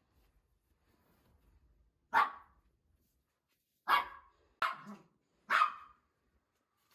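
A pet dog barking four times, single sharp barks spaced about a second or two apart.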